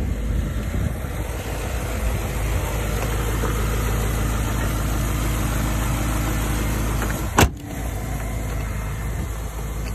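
BMW E39 M5's 4.9-litre S62 V8 idling steadily while it warms up after a cold start. A single sharp knock about seven and a half seconds in.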